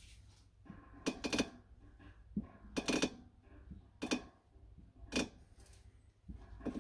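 Front suspension ball joints of a Lada VAZ-2110/2112 creaking, about five separate squeaky creaks roughly a second apart as the suspension moves.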